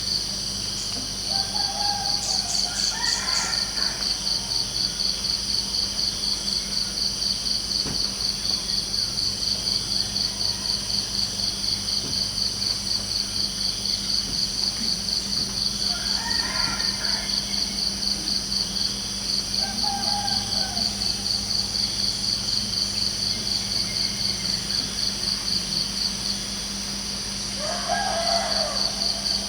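Crickets chirping in a steady, fast pulse, with a rooster crowing faintly four times.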